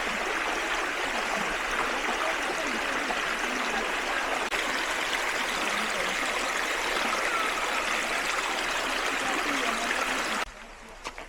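Creek water flowing in a steady, even rush. It cuts off abruptly near the end, leaving a quieter background with a few faint clicks.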